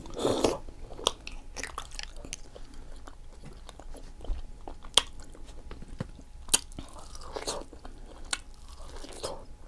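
Close-miked chewing and biting into seafood-boil food, with scattered wet mouth clicks and smacks.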